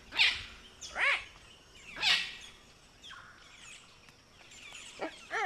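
Palm cockatoo calls: three loud, harsh screeches rising in pitch, about a second apart, followed by fainter bird chirps.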